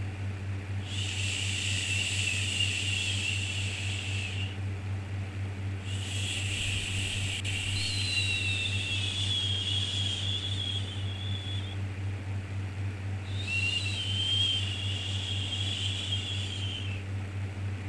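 Drawn-out 'shhh' shushing for soothing a baby, three long hushes of about three to six seconds each with short pauses between them, over a steady low hum.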